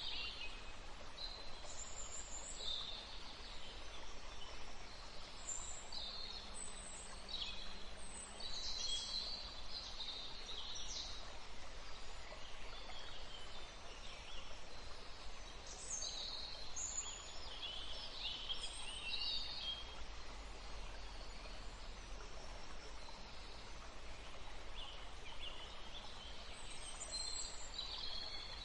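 Several small birds singing and chirping in high, quick phrases that come in bursts with short lulls, over a faint steady low rumble of outdoor background.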